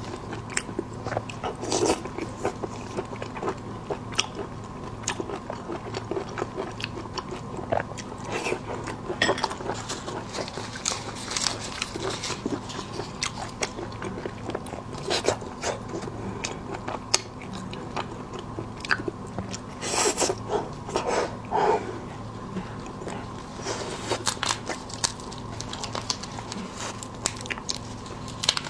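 Close-miked eating of seafood: irregular crunches, bites and wet chewing, with a burst of louder crunching about two-thirds of the way through, over a steady low electrical hum.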